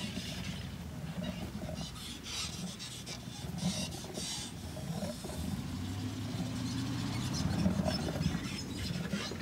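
A Toyota Tercel's engine revs as the car sits stuck in deep mud. The engine note swells and rises in pitch in the second half, with scattered splashing and scraping noise.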